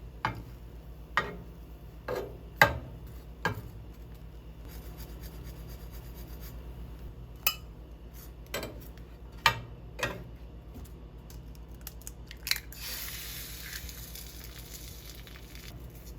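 Dishes and kitchen utensils being handled and set down: about ten sharp, separate knocks and clinks, followed near the end by a few seconds of soft hiss.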